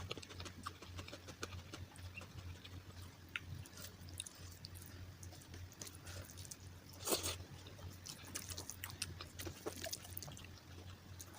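Close-miked chewing: a person eating, with many small wet clicks and mouth noises and one louder crunching bite about seven seconds in, over a steady low hum.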